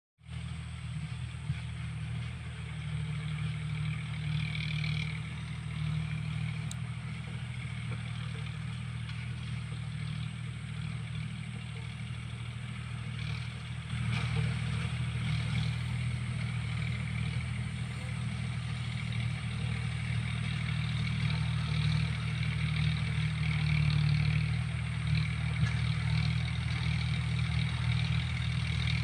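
John Deere tractor's diesel engine running steadily, growing louder about halfway through.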